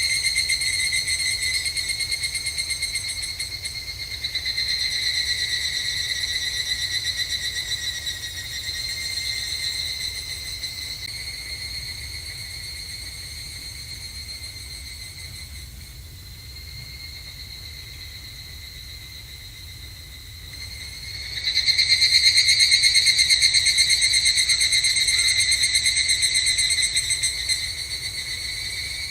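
Evening cicadas (higurashi, Tanna japonensis) singing rapid, high, ringing trills, several overlapping. The chorus fades to a quieter background through the middle, then a loud call starts about three quarters of the way through and tapers off near the end.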